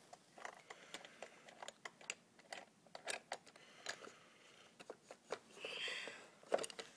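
Irregular light clicks and metallic taps of a 10 mm socket wrench working the battery terminal nuts, with a louder click near the end.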